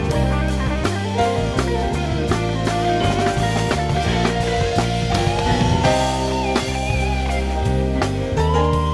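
Live band playing an instrumental passage of a jazz-arranged song: guitar over bass and drum kit, with a long bending high note in the middle.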